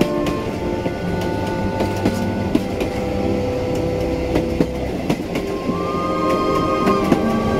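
Train on the Baie de Somme railway running along the track: a steady rumble with wheels clicking over the rail joints, and a brief high wheel squeal about six seconds in.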